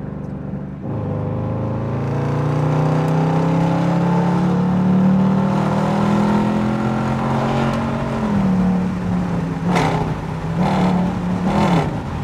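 Dodge Durango R/T's 5.7-litre Hemi V8 accelerating, its note rising steadily for several seconds, then dropping as the automatic transmission upshifts about eight seconds in. Three short knocks near the end.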